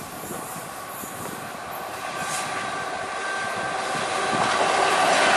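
Electric-locomotive-hauled passenger train approaching, its rumble and rail noise growing steadily louder as it nears, with a thin, steady high whine in it.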